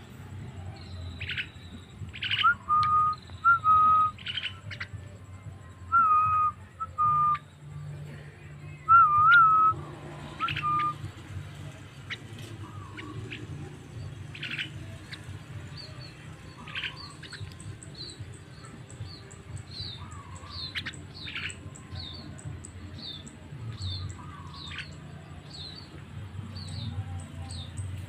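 Javan myna (jalak kebo) calling: loud, clear whistles with short rising hooks and sharp upward-sweeping chirps through the first ten seconds, then a long run of short, high, evenly repeated notes. A low steady hum runs underneath.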